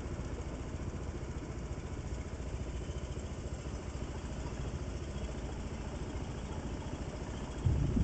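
Vehicle engine idling steadily with an even low pulse, then a louder low rumble begins near the end as it picks up.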